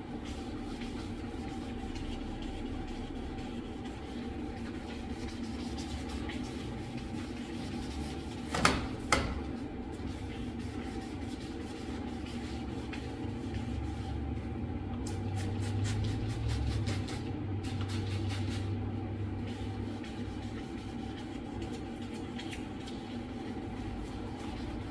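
Hand wet sanding of a plastic headlight lens with fine-grit sandpaper, light rubbing strokes over a steady background hum. Two sharp knocks about nine seconds in are the loudest sounds.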